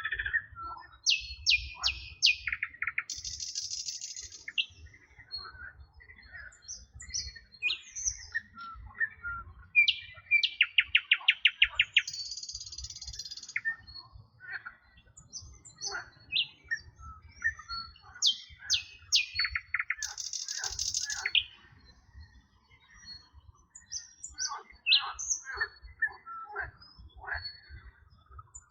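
Several songbirds singing and chirping together: short whistled notes, quick trills and high buzzy phrases. The loudest is a rapid run of repeated notes about ten seconds in, all over a faint low rumble.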